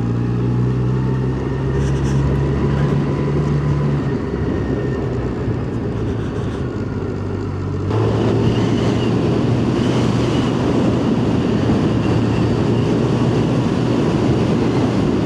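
Yamaha FZ1's inline-four engine running steadily under way. It grows louder, with more road and wind noise, about eight seconds in.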